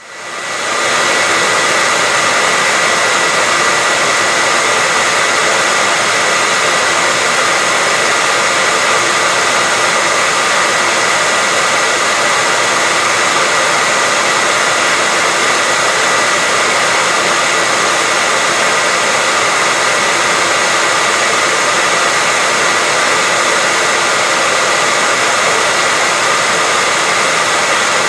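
Electric hair dryer running steadily: a continuous airy rush with a thin steady whine on top, fading in over the first second.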